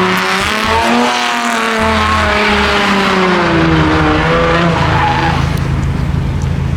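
A car's engine revving hard, its pitch rising and falling, while its tyres squeal and skid in a burnout.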